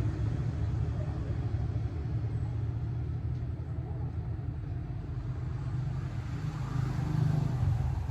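Steady low rumble of a vehicle on the move, engine and road noise together, swelling slightly near the end.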